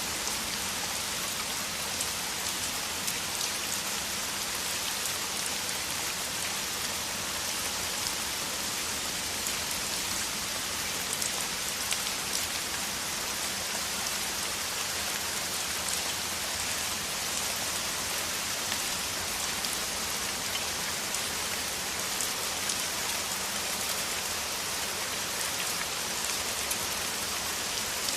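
Heavy rain falling steadily: a dense, even hiss of drops with fine patter throughout.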